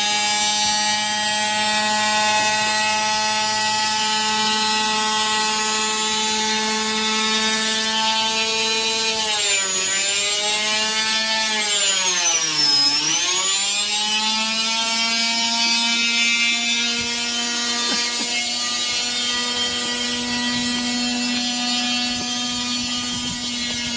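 Washing machine motor whining steadily during a spin with a brick inside. Its pitch sags a little about ten seconds in, then dips deeply a few seconds later before climbing back to the same steady whine.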